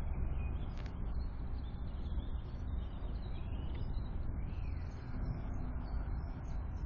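Faint, scattered bird chirps and short calls over a steady low rumble.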